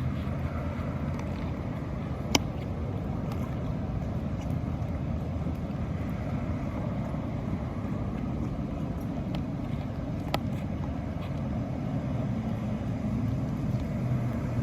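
Steady low outdoor rumble with two sharp clicks, one a couple of seconds in and one about ten seconds in.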